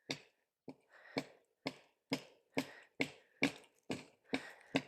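Repeated sharp strikes on a tree trunk, about two a second, knocking a birch chaga growth (桦绒) off the tree.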